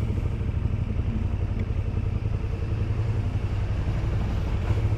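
KTM 1290 Super Duke's V-twin engine running steadily at low revs, with a deep, even pulsing throb.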